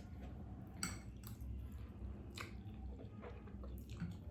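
Close-up mouth sounds of eating spicy instant noodles: soft wet chewing, with a handful of short, sharp smacks spaced irregularly.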